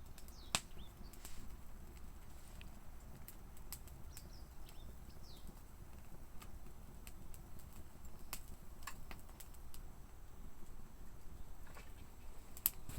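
Wood fire crackling: irregular sharp pops and snaps at uneven intervals over a low steady rumble.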